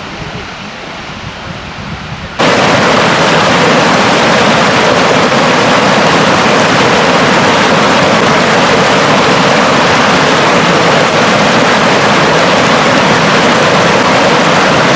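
Loud, steady rush of a waterfall, cutting in suddenly about two seconds in after a quieter stretch of water noise.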